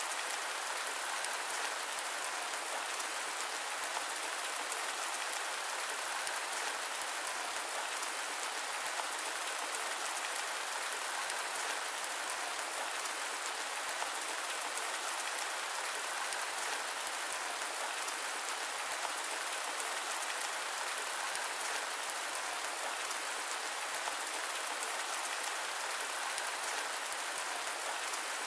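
Steady rain with a smooth hiss and no thunder, drops or other events standing out.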